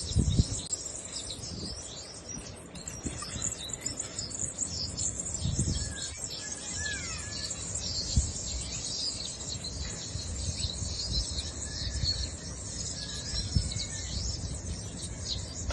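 Many small birds chirping and twittering in a dense, continuous high chorus, with a falling call about seven seconds in. A few brief low thumps are also heard.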